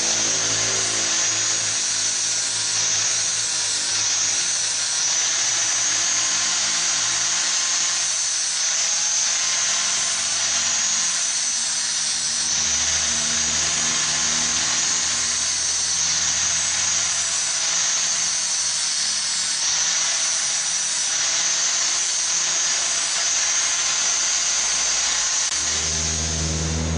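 A power tool running continuously, with a steady high-pitched hiss.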